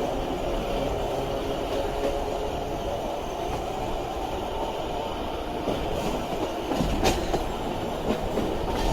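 762 mm narrow-gauge electric train with nose-suspended traction motors running along the track: a steady rumble of wheels and running gear, with a sharp knock about seven seconds in.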